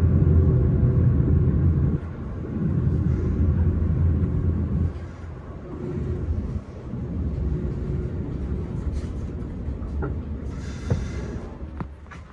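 S-Bahn train running with a steady low rumble that eases off in steps. Near the end come a few sharp clicks and a short hiss.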